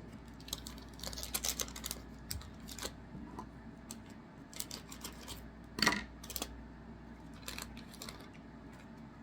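Trading cards being handled and flipped through: a scatter of short, dry clicks and rustles of card against card, with the loudest click about six seconds in.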